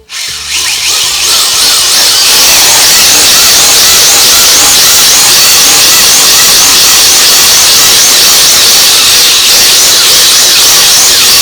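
Small toy quadcopter drone's electric motors and propellers spinning up hard on a ground test of the crash-repaired drone. It is a loud, high whine that wavers in pitch, starting suddenly and running for about twelve seconds.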